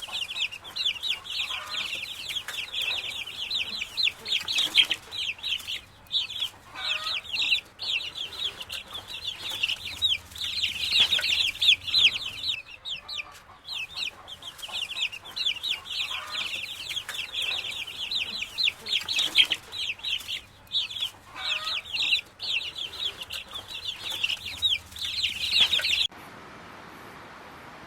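Chickens calling: a dense chorus of quick, high-pitched peeps overlapping without a break, with a few lower calls now and then. It cuts off suddenly near the end, leaving a faint steady hiss.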